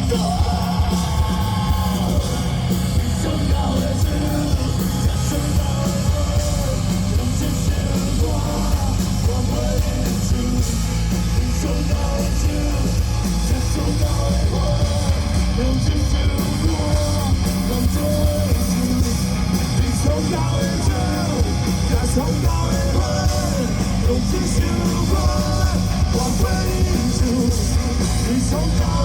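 Live rock band playing loudly: guitars, bass and drums with sung and yelled vocals over them.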